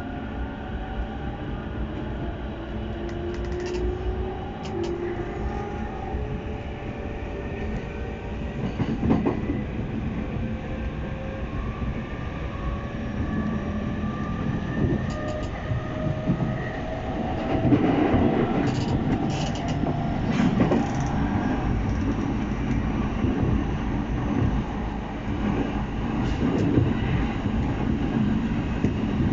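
Electric commuter train accelerating: the traction motors' whine climbs steadily in pitch, with the wheels clacking over rail joints several times, most around twenty seconds in.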